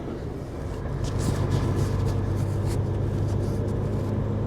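Steady low drone of a semi-truck's engine and road noise heard inside the cab at highway speed, with short gusts of hissing wind noise against the cab in a strong crosswind, which the driver hears as the truck whistling.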